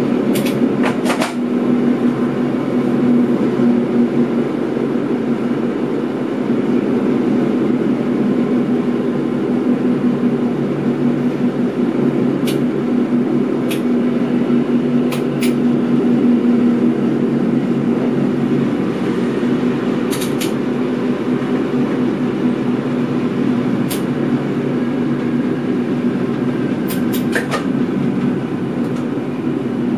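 Driver's-cab running noise of a Mat '64 electric multiple unit under way: a steady low drone with a constant hum, broken now and then by short sharp clicks.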